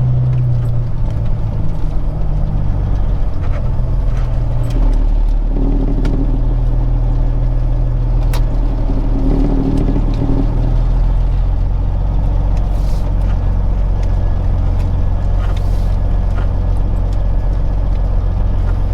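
Peterbilt 379 semi truck's diesel engine running as the truck pulls away, heard from inside the cab, its pitch dropping in steps a few times, with occasional light rattles.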